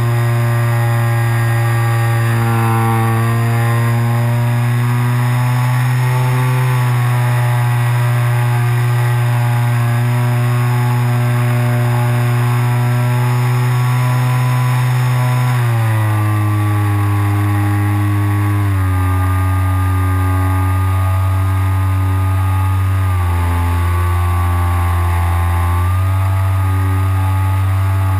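RC glider's motor and propeller running with a steady drone, shifting pitch in steps several times in the second half.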